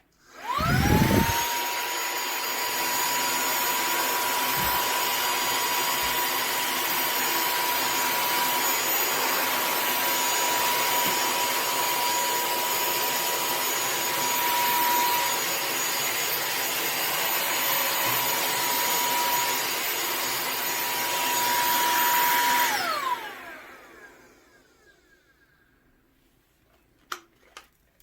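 Cordless handheld car vacuum with a brushless motor switched on, spinning up within a second to a steady high whine over a rush of air. It runs for a little over twenty seconds, is switched off, and winds down with a falling whine. A couple of light clicks come near the end.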